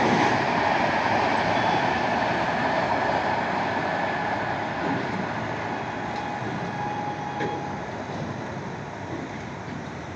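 Running noise of a train on the rails, a steady rush and rumble that slowly fades as the train draws away.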